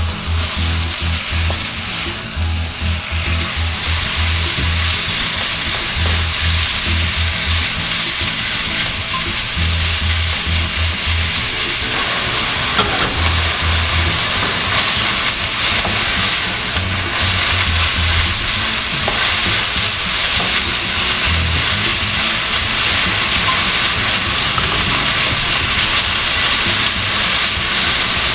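Marinated beef sizzling as it fries in oil in a hot nonstick wok and is turned with a spatula; the hiss grows louder about four seconds in. Background music with a pulsing bass runs underneath.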